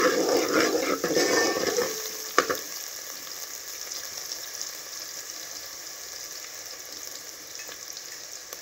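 Chopped onion, garlic and diced carrot frying in ghee in a metal pot, stirred with a steel ladle that scrapes the pot for the first two and a half seconds, ending with one sharp knock. Then a steady, quieter sizzle.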